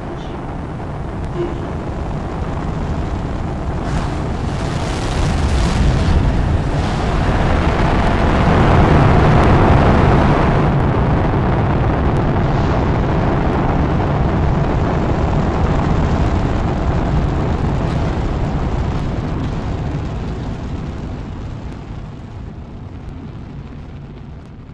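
Spaceship take-off sound effect: a loud rushing rumble that builds over the first ten seconds or so, peaks, then slowly dies away.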